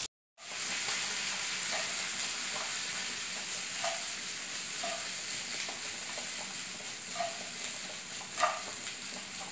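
Boiled raw banana slices and crushed garlic sizzling in a little oil in a nonstick frying pan: a steady hiss with scattered small pops, one louder pop near the end.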